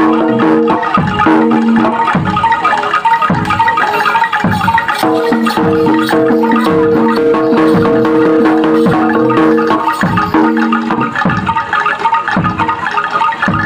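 Loud gamelan-style music: ringing metallophone notes over deep drum strokes that drop in pitch. A held chord sounds at the start and again through the middle.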